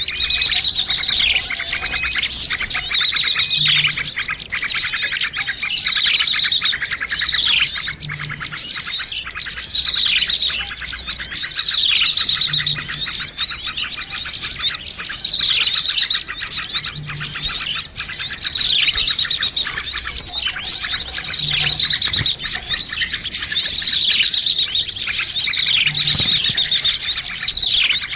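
Bird-luring recording of many small birds chirping noisily at once, a dense unbroken chatter. A falling call recurs about every four and a half seconds, so the mix is looped.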